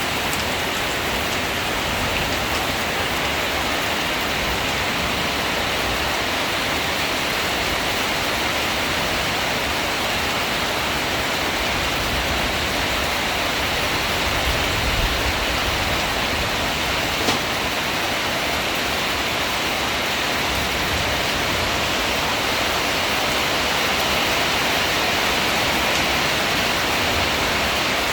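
Heavy storm rain falling steadily, a dense, even hiss of rain on surfaces.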